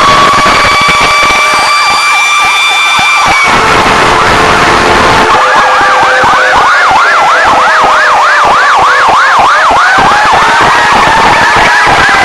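Fire truck sirens sounding loudly, more than one at a time: a slow wail overlaid with a fast yelp, then a rapid yelp of about three to four sweeps a second that gives way to a rising wail near the end.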